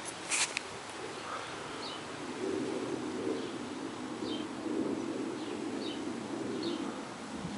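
Birds calling: a low call repeating through the middle and short high chirps every half second or so, with a brief click near the start.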